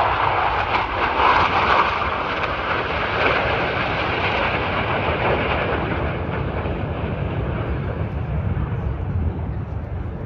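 Jet aircraft flying past. Its engine noise is loudest in the first couple of seconds, then fades steadily as it moves away, over a steady low rumble.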